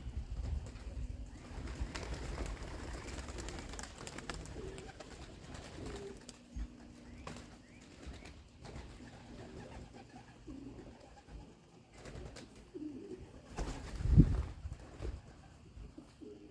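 Domestic pigeons cooing in their loft, short low coos scattered throughout, with knocking and handling noise and one loud thump about fourteen seconds in.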